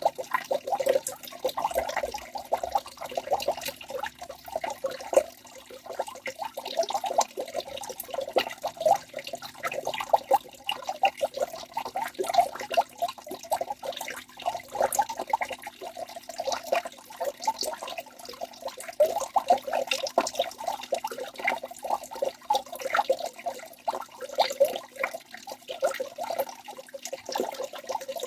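Waterfall: water falling and splashing without pause, a dense, steady patter of small splashes and gurgles.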